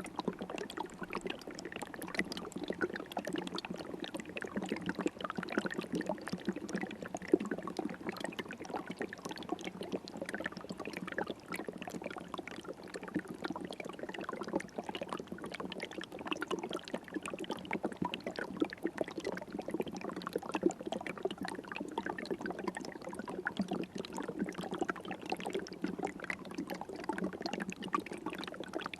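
River water flowing and splashing steadily, a continuous babble of small splashes and trickles.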